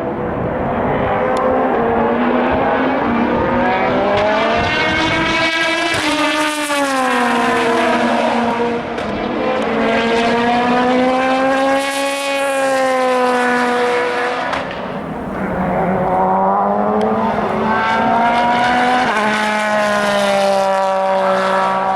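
Endurance race cars running at speed, their engine notes rising and falling as they pass and change gear, one car following another.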